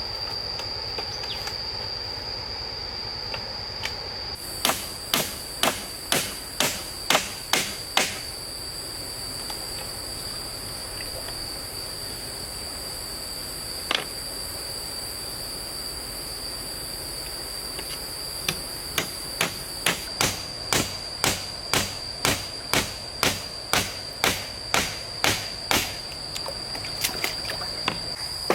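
Repeated sharp strikes on wood, about two a second, in a short run of about eight and then a longer run of about sixteen, with a single strike between. A steady high insect drone sounds underneath.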